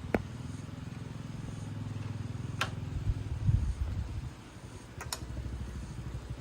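Small motorcycle engine running steadily, with a few sharp clicks over it.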